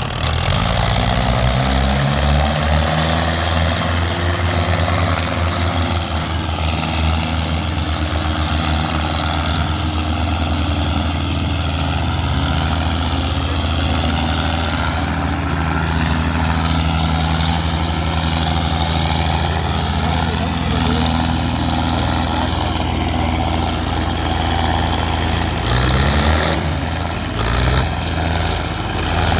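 Tractor diesel engine revving up and running at high revs under heavy load, pulling a loaded sugarcane trolley. Its pitch climbs over the first few seconds, holds steady, dips briefly near the end and rises again.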